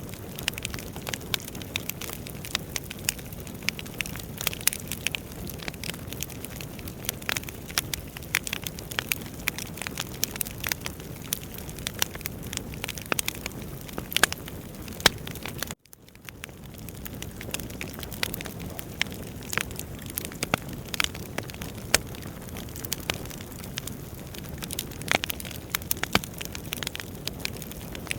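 Wood fire burning in a fireplace: a steady low rumble of flames with frequent sharp crackles and pops from the burning logs. A little over halfway the sound cuts out for an instant and fades back in.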